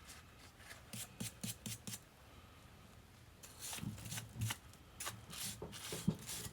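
Short scraping strokes on the metal of a Kurt milling machine vise as caked crud and dirt are scraped off: a quick run of about five strokes, a short pause, then more, less even strokes.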